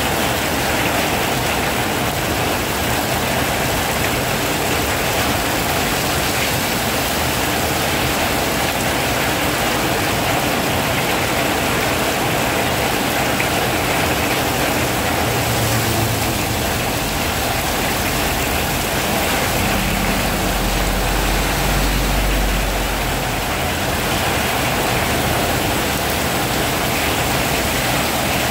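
Heavy rain falling steadily, a dense even hiss of downpour. About two-thirds of the way in, a low rumble rises under the rain for a few seconds.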